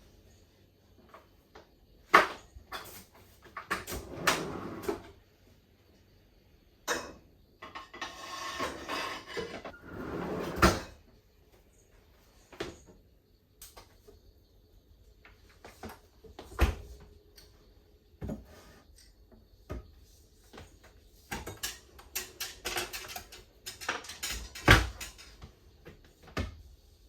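Irregular knocks and clicks of things being handled, like cupboard doors and kitchenware, with a few short spells of rustling.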